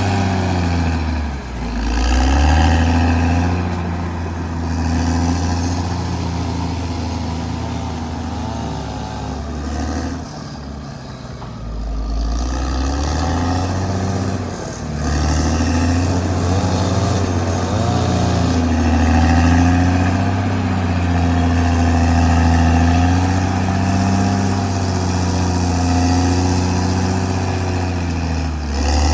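Caterpillar D6R XL bulldozer's diesel engine running under load, its pitch dipping and recovering a few times as it works.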